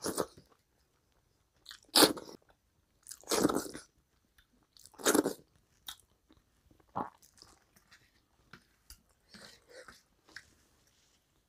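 Close-miked chewing and biting of a mouthful of rice and curry eaten by hand, in about five loud bursts over the first six seconds. Fainter, scattered sounds follow as fingers mix rice and curry on a plastic plate.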